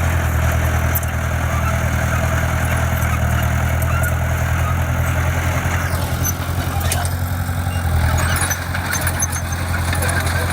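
Diesel engine of heavy construction equipment (bulldozer or dump truck) running steadily with a deep, even drone.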